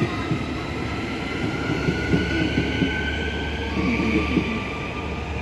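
Transperth electric multiple-unit train pulling out of the station: a continuous rumble of wheels on rail with the traction motors' whine rising slowly in pitch as it gathers speed.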